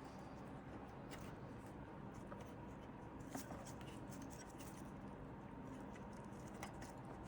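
Faint scattered clicks and scrapes of hands working the plastic push-pin fasteners of a motherboard fan mount, trying to press them through the board's holes, over a low room hum.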